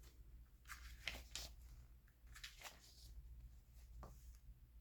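Near silence, with a few faint, brief rustles and taps of magazine paper pages being handled and turned.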